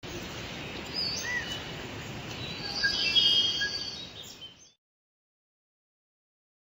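Birds chirping over a steady hiss, louder about three seconds in, cutting off suddenly after about four and a half seconds.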